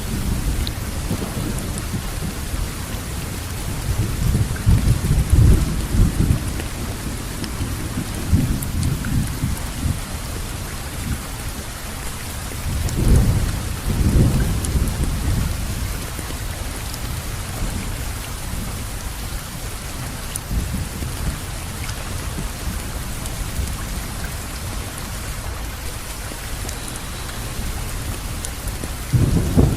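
Steady rainfall with low rolling rumbles of thunder that swell a few seconds in and again near the middle.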